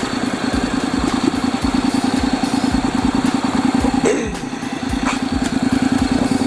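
Honda DCT motorcycle engine idling steadily in drive, driving the lifted rear wheel so it spins freely on the center stand. A brief falling tone cuts in about four seconds in.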